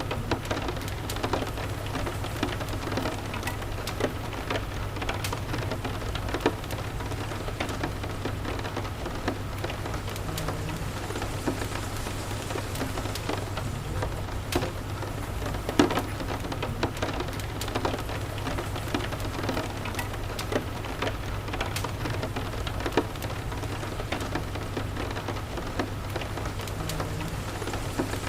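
Steady rain, a continuous hiss with scattered sharp ticks and pops throughout, over a constant low hum.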